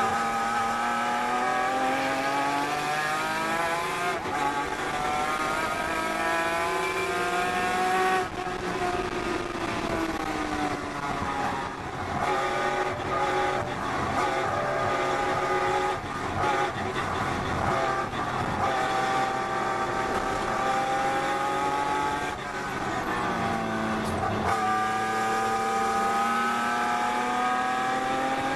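Datsun 240Z race car's straight-six engine under hard racing load, heard from inside the cockpit. The revs climb for several seconds, fall off sharply about eight seconds in, hold fairly steady, dip once more and climb again near the end.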